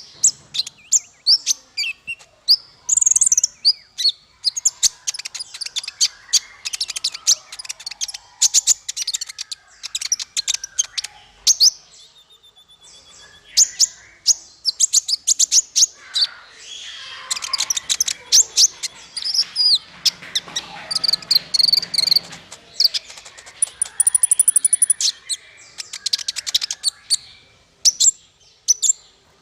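Songbird song from a masteran tutor recording for caged fighter birds: rapid high chirps, sharp clicking notes and trills in quick succession, with a fuller warbling stretch about halfway through.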